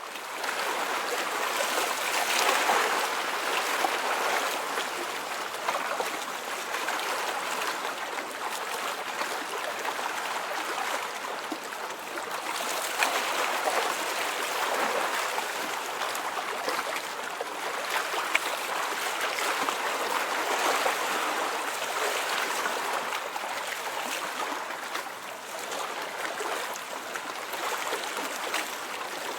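Running water of a small stream or brook, a steady rushing and splashing that swells and eases a little.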